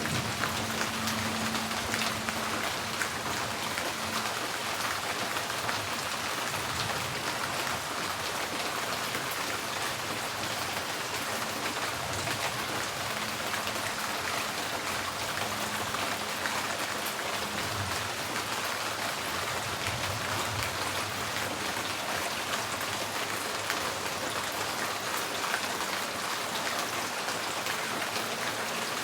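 Steady rain on a tin porch roof: a dense, even hiss of many drops striking the metal, with sharper single drips throughout.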